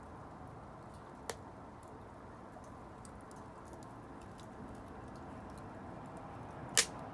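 Wood fire burning with a steady soft rush and faint scattered crackles. Two sharp pops stand out: a small one about a second in and a louder one near the end.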